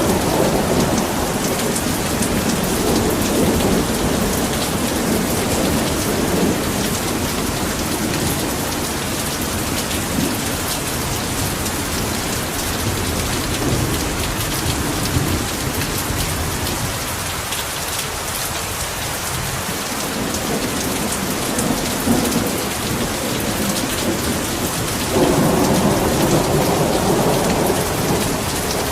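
Heavy rain pouring steadily, with low rolling rumbles in the first several seconds and again a few seconds before the end.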